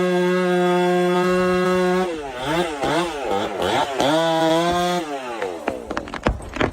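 Chainsaw running at high, steady revs. Its pitch dips and recovers about four times in the middle, then the engine sound drops away about five seconds in. Near the end comes a run of sharp cracks and snaps.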